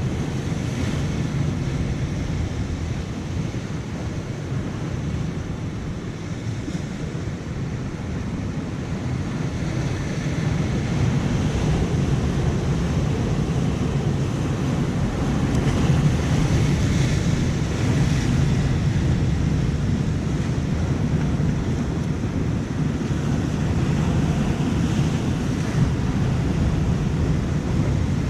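Surf washing in, mixed with wind buffeting the microphone. A steady rushing noise that grows a little louder about ten seconds in.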